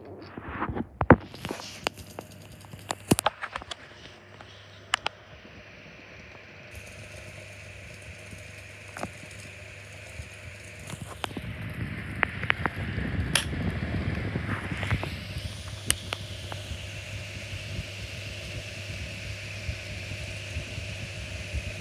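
Blue Ice 9-inch electric desk fan: several sharp clicks and knocks in the first few seconds, then the fan running with a steady low motor hum under the rush of the blades. The airflow grows louder about halfway through and rises in pitch as the fan comes up to speed, then holds steady.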